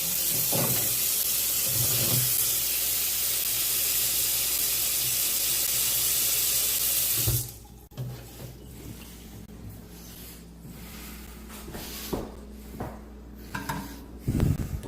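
Water running steadily from a tap, a loud even rush that cuts off abruptly about seven seconds in, followed by a few quieter knocks.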